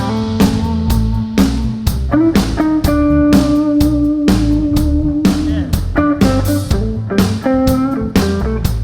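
Live rock band playing an instrumental passage with electric guitar, bass guitar and drum kit, the drums keeping a steady beat under held guitar notes.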